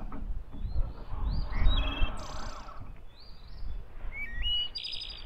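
Songbirds singing: repeated short phrases of rising whistled notes, twice ending in a fast high trill. Underneath runs a low rumbling noise that swells about a second and a half in.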